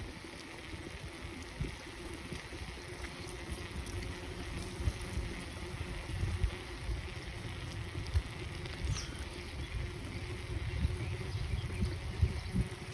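Bicycle ride in the rain: wind gusting on the microphone in uneven low rumbles over a steady hiss of rain and wet tyres.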